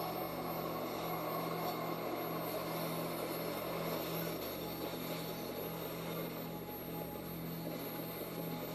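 Freight train cars rolling past on the rails, a steady rumble of wheels with a steady low hum underneath.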